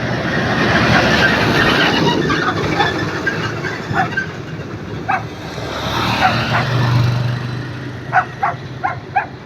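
Vehicles passing on a road, the engine and tyre noise swelling twice. A dog barks now and then, with a quick run of four barks near the end.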